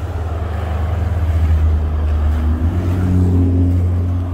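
A motor vehicle passing on the road, its low engine rumble swelling and then easing off.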